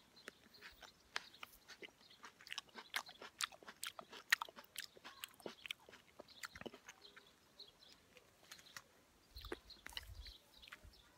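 Close-up chewing of a juicy ripe cherry plum: wet smacking and many small mouth clicks, busiest in the first half. A short low rumble comes about nine seconds in.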